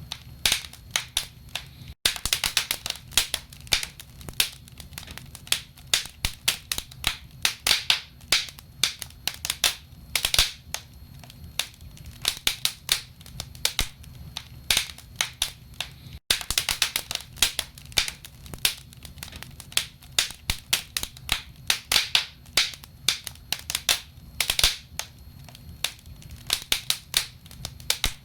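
Wood fire burning in a fireplace: logs crackling with dense, irregular pops and snaps over a low steady rumble.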